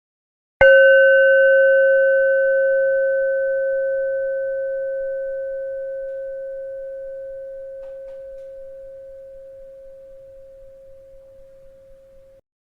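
A bell struck once about half a second in, ringing one strong low tone with fainter higher overtones. It dies away slowly over about twelve seconds, then cuts off abruptly near the end.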